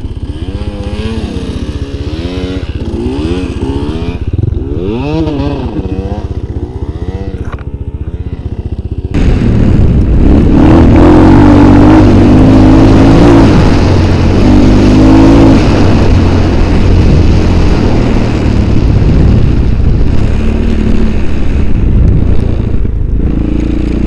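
A small vehicle engine under way, its pitch rising and falling with the throttle; about nine seconds in it gets suddenly louder and runs at steady high revs.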